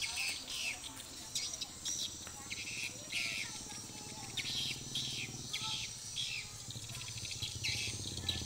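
Small birds chirping over and over in short, high notes, with the low hum of a motorcycle engine growing in the second half as the bike approaches.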